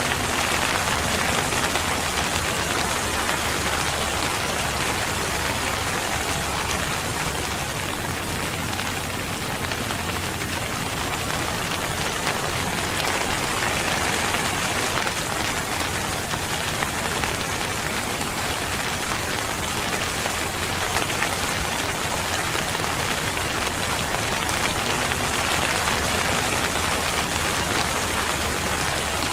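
Steady rain falling, a dense, even hiss of many drops on surfaces, holding constant throughout.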